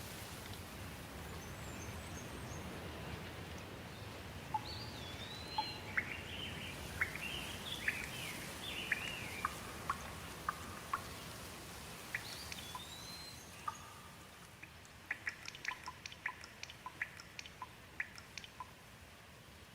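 Light steady rain with birds chirping over it, a string of short calls from about four seconds in until past the middle. Near the end the bird calls give way to a run of sharp water drips, several a second.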